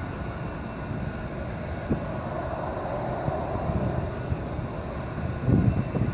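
Boeing 737-800's CFM56 jet engines running with a steady, loud roar and a hum in the middle range. Wind buffets the microphone in low thumps near the end.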